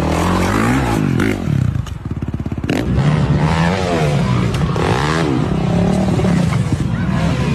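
Dirt bike engine revving up and down several times, dropping to a slow, pulsing low idle about two seconds in before revving up again.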